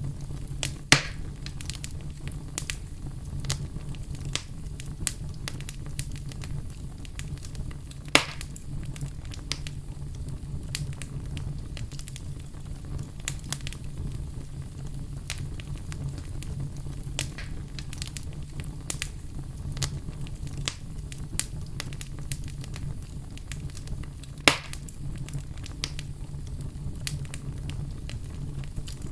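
Fire crackling steadily: a low rumble of burning under a constant scatter of small snaps, with three louder pops, about a second in, about eight seconds in and about 24 seconds in.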